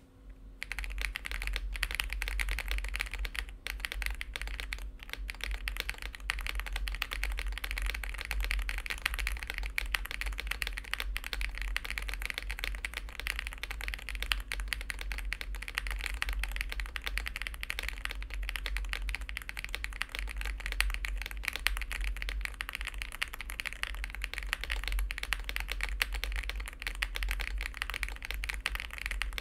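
Continuous fast typing on a Monsgeek M1 V5 mechanical keyboard, its keystrokes giving a dense, even run of soft clicks that starts about half a second in; the uploader calls the keyboard's sound creamy.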